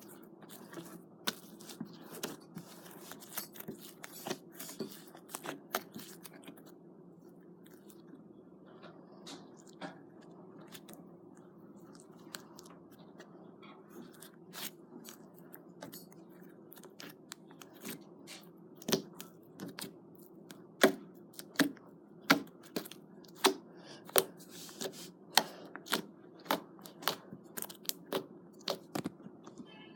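Slime being squeezed and worked by hand, giving many small sticky clicks and crackles. In the second half, louder pops come regularly, about three every two seconds.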